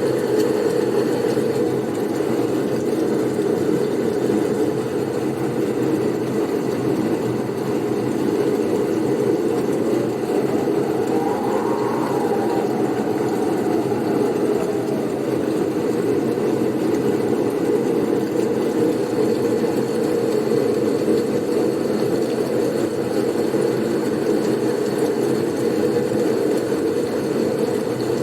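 Blizzard wind: a steady low rushing noise, with a faint higher whistle that rises and falls about halfway through.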